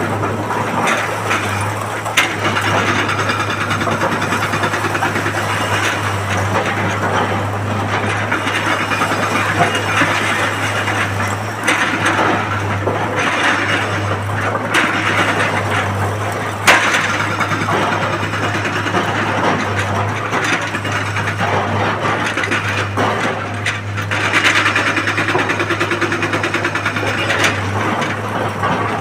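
Heavy excavator working: a steady engine drone under a shifting scraping and clattering noise, with a sharp knock about two seconds in and another a little past the middle.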